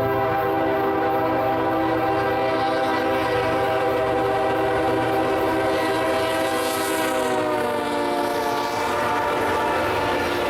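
Nathan K5HL five-chime horn on a CSX ES44AC locomotive sounding one long, loud chord. The chord dips slightly in pitch about seven and a half seconds in as the locomotive passes.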